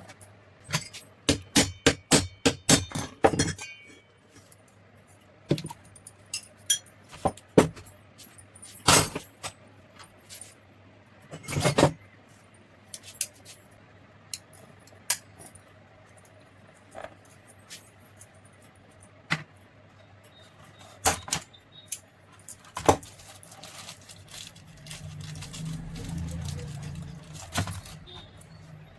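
Small metal parts and tools being handled during bench repair of a mixer grinder: a quick run of sharp clicks and clinks, then scattered single taps and knocks.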